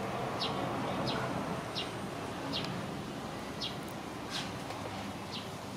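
A small bird chirping in a steady series of short, high chirps, a little more than one a second, over faint outdoor background noise.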